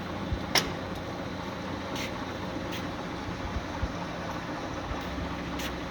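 LeBlond Makino 19" x 54" servo shift lathe running with a steady hum while its cross feed is engaged. A few sharp clicks cut through it, the loudest about half a second in.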